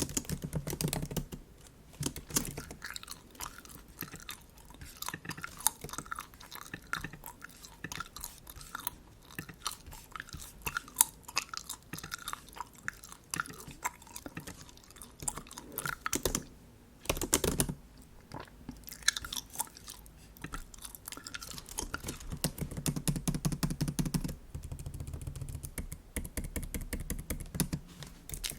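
Bubble gum chewed close to the microphone: a steady run of wet smacks and sticky clicks, with a few louder, fuller chewing stretches past the middle.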